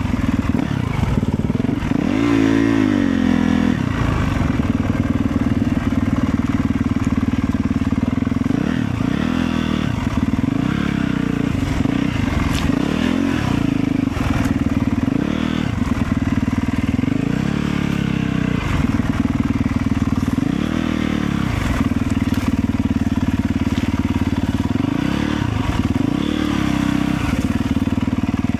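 Motorcycle engine running during a ride, its pitch rising and falling several times.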